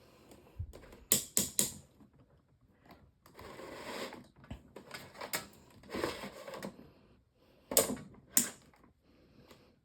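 The tilt joint of a Lasko 18-inch table fan clicking through its detent positions as the fan head is tilted by hand. There is a quick run of three sharp clicks about a second in, handling and rubbing noise in the middle, and two more clicks near the end.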